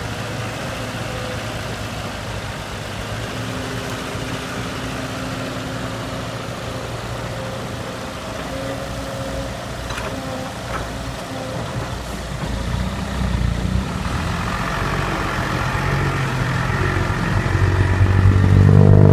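Heavy diesel engine of an excavator or dump truck running steadily, growing louder over the last several seconds.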